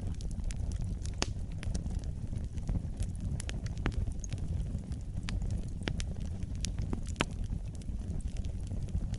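Fire burning in a fireplace: a steady low rumble of flames with sharp crackles and pops scattered throughout, about two a second.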